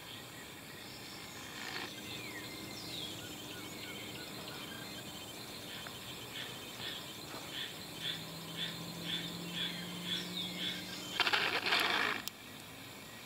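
A bird calling in woodland: a few falling whistled notes, then a run of short, evenly repeated high notes. Near the end comes a loud, buzzy hiss about a second long that stops suddenly.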